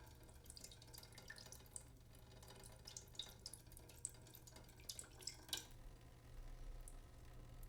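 Faint water dripping: irregular single drops over a low steady hum.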